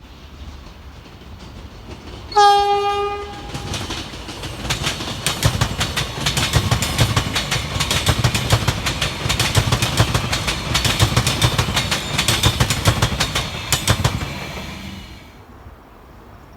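A train sounds one short horn blast about two seconds in, then passes by, its wheels clicking over the rail joints, and the sound fades away near the end.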